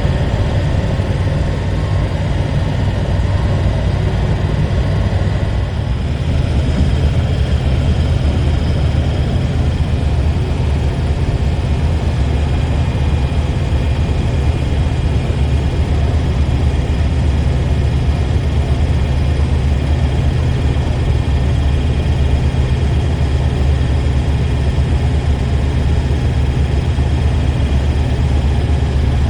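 Hotshot pickup truck under way on the road: a steady low engine drone with tyre and road noise, growing a little louder about six seconds in.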